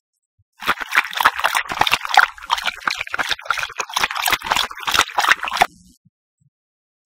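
A can of beer being chugged: liquid glugging and sloshing in the aluminium can, a dense crackly gurgle that starts about half a second in and stops abruptly after about five seconds.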